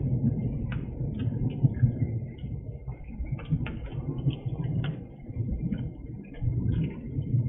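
Rain falling, heard through a porch security camera's microphone: an uneven low rumble with scattered sharp ticks of drops close by.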